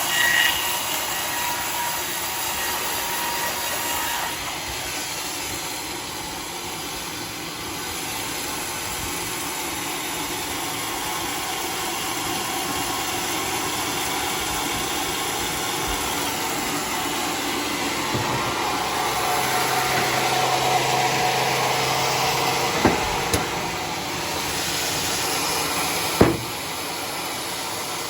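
Homemade sawmill running steadily as it saws a bayur log, with two sharp knocks near the end.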